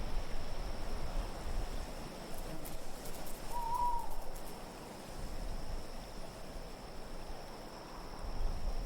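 Steady wind ambience with an owl hooting once, briefly, a little under four seconds in.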